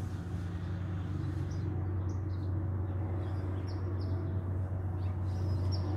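Small birds chirping in short, high, scattered notes over a steady low hum.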